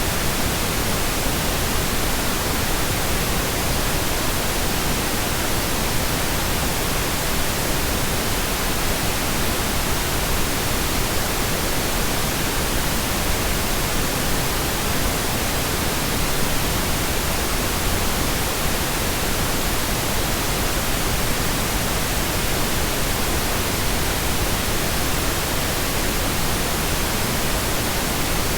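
Steady pink noise: an even, unchanging hiss spread across all pitches, a generated masking sound.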